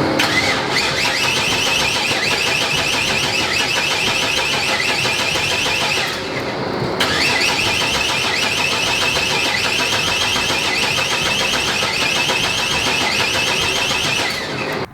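A truck's starter cranking the engine in two long attempts, about six and seven seconds each, with a pause of about a second between them. The engine never catches because there is no fuel in the tank.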